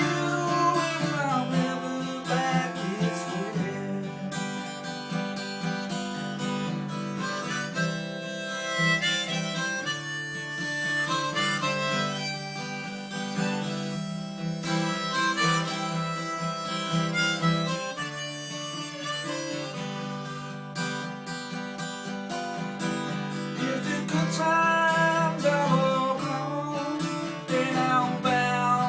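Harmonica solo with held, sliding notes over a steadily strummed acoustic guitar: the instrumental break of a country-folk song.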